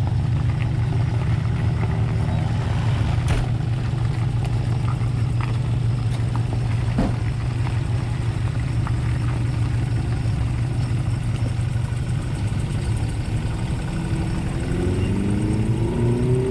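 Off-road 4x4's engine running steadily at low revs, with a couple of brief knocks, then revving up with a rising pitch near the end.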